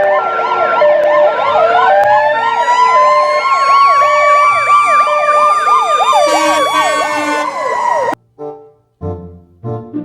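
Several emergency-vehicle sirens sound together: a fast yelp, a two-tone hi-lo, and a wail that rises about a second in. All of them cut off suddenly near the end.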